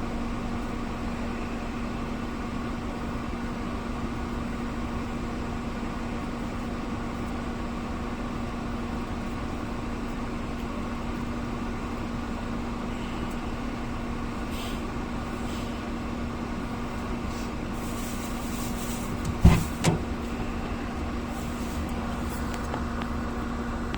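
Steady motor hum with one constant tone, unchanging throughout. Two sharp knocks come about half a second apart, a few seconds before the end.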